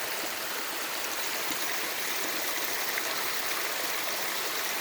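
A stream of cold water running steadily, with a steady rushing and small trickling sounds.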